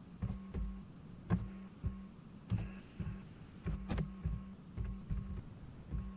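Scattered soft thumps and clicks, about one or two a second, over a steady low hum.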